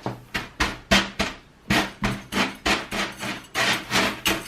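Homemade cactus potting mix of clay balls, pumice and soil being stirred in a container: repeated sharp knocks and scrapes, about three a second.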